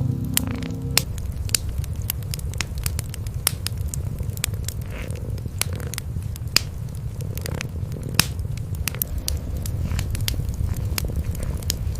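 Fireplace fire crackling with frequent sharp, irregular pops over a steady low rumble of cats purring. A few held music notes stop about a second in.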